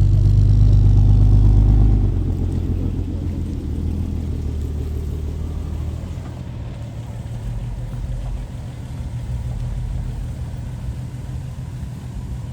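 Car engine running close by, a steady low hum that drops in level about two seconds in and then carries on more quietly.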